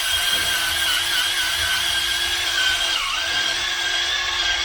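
Electric drill spinning a stone cylinder hone in an engine bore: a steady motor whine over the scraping of the stones, briefly dipping in pitch about three seconds in as the drill takes more load.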